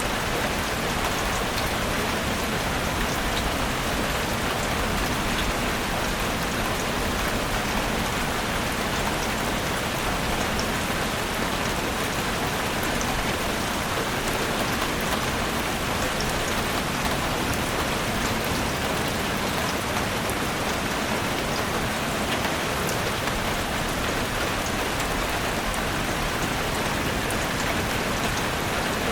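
Steady rain falling in a forest: a dense, even hiss with small drops ticking through it, unchanging throughout.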